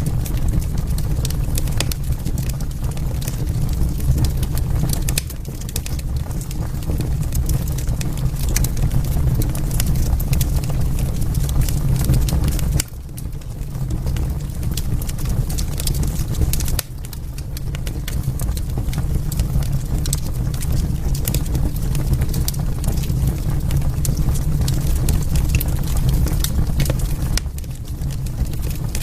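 Wood fire burning in a fireplace: a dense, steady stream of crackles and sharp pops over a low rumble of the flames, dipping suddenly in loudness twice midway.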